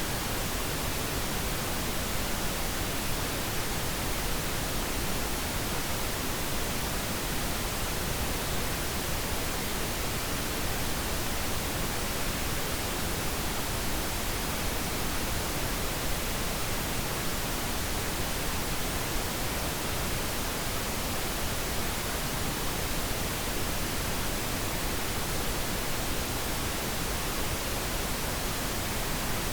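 Steady pink noise: an even, unchanging hiss spread across all pitches, played as a sleep aid for babies.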